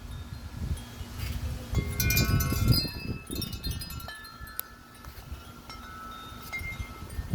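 Several metal-tube wind chimes ringing in gusty wind, with a burst of many overlapping strikes about two seconds in that thins to a few sparse rings later. Wind buffets the microphone throughout.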